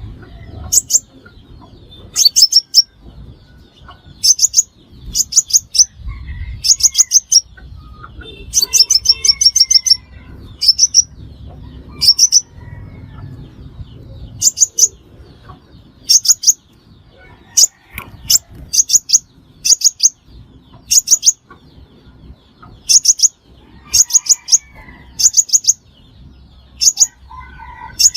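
Crimson sunbird calling: sharp, very high-pitched notes in quick runs of two to five, repeated about once a second.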